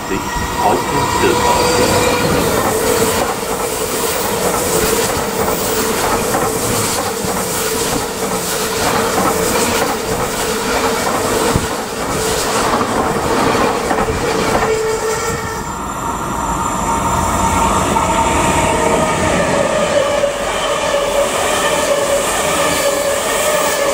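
An ICE high-speed train passing close by at the platform: wheels clattering on the rails with a steady whine. About two-thirds through the sound changes to a double-deck Intercity train passing, with a higher whine of its own.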